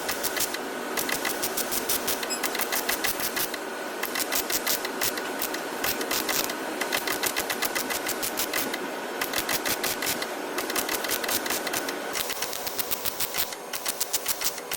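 Rapid, evenly repeated mechanical clatter of several clicks a second, like a power tool working in a body shop; about twelve seconds in the lower part of the sound drops away and the clatter goes on.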